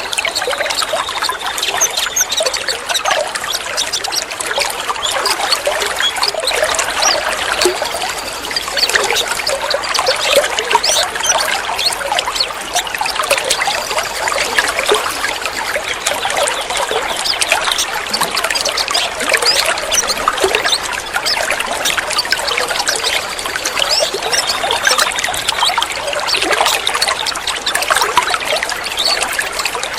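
Steady trickling, splashing water, thick with small droplet ticks, with a faint wavering high bird call now and then.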